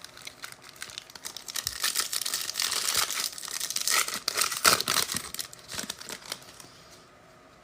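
Plastic wrapper of a football trading card pack being torn open and crinkled in the hands, an irregular crackling that dies away near the end.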